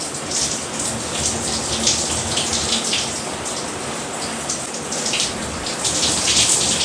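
Water from a Hibbent rainfall shower set pours down steadily and splashes in the shower, with uneven spattering as it falls.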